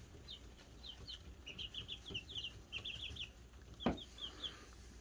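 Young chicks peeping in a brooder: quick runs of short, high, falling peeps. A single sharp knock about four seconds in.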